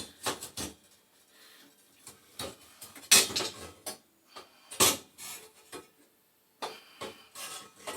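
Steel gas burner tubes knocking and scraping against the boiler's burner tray as they are slid and dropped into their slots: a string of irregular metallic clinks and clunks.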